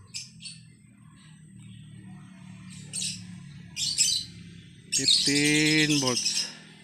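Small birds chirping in short, high bursts, with a louder, longer call about five seconds in that lasts roughly a second.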